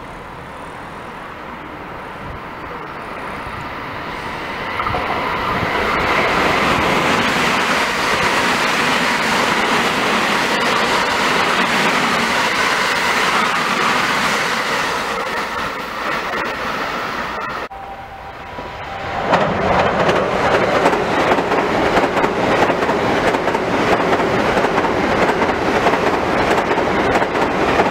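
A JR West electric multiple-unit train passes at high speed. Its sound builds over about five seconds, stays loud, then fades. After a sudden break, a second fast electric train crosses a steel girder bridge, loud with rapid wheel clatter.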